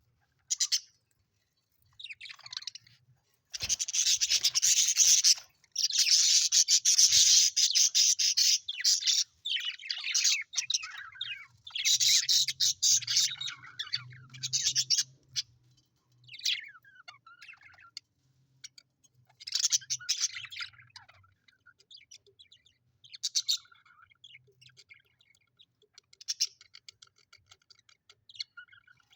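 Budgerigars chattering and chirping in fits and starts, with a dense run of rapid chatter in the first third and sparser calls later on.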